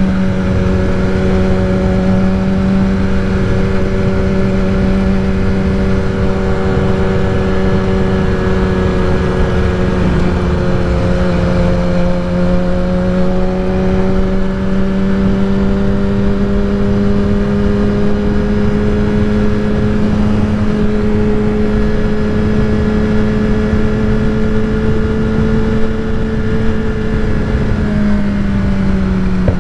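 Kawasaki ZX-10R's inline-four engine breathing through a Graves full titanium race exhaust, cruising at steady revs; the pitch creeps slowly up over the middle and falls off near the end as the throttle eases. Wind noise rushes over the microphone throughout.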